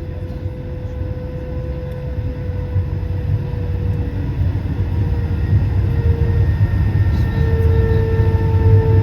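Airbus A220-300's Pratt & Whitney PW1500G geared turbofans heard inside the cabin: a deep rumble under a humming whine, growing steadily louder, with the whine stepping up in pitch about six seconds in as the engines spool up.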